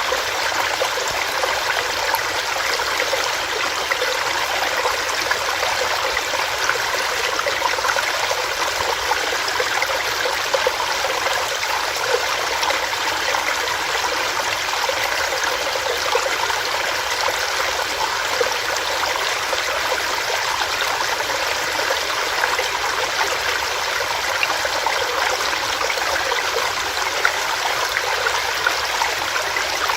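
Small stream running over rocks, a steady splashing and burbling rush of water.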